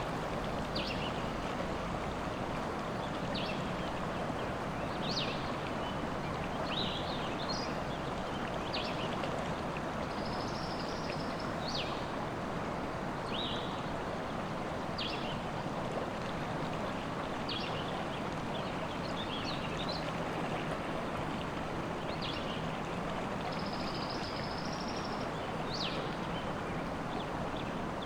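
River water rushing steadily, with songbirds chirping and trilling on and off throughout.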